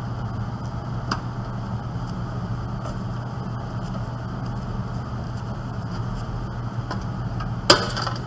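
Metal computer parts handled during reassembly of a desktop PC's power supply, with a light click about a second in and a loud, brief clattering scrape near the end, over a steady low hum.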